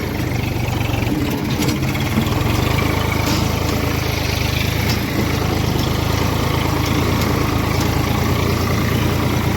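Eicher tractor's diesel engine running steadily at idle, a low even chugging hum.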